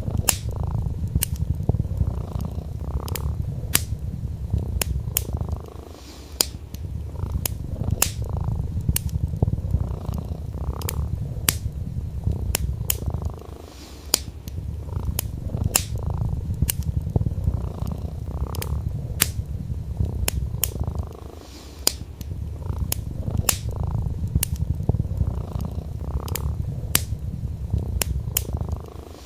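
Domestic cat purring in a steady low rumble that breaks off briefly every several seconds, over the irregular crackle and sharp pops of burning wood in a fireplace.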